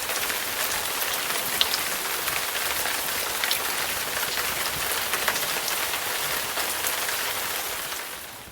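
Steady rain falling, a dense hiss with many individual drops ticking close by; it fades out near the end.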